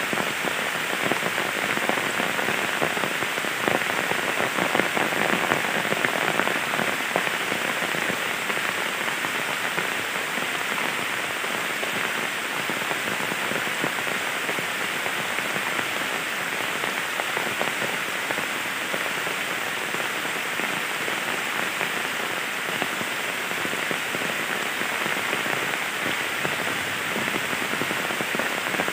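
Heavy rain falling steadily onto a flooded fish pond, a dense, even patter of drops.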